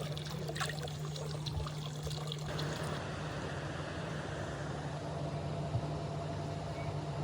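Water pouring and running steadily, over a steady low hum; the rush of water gets fuller about two and a half seconds in.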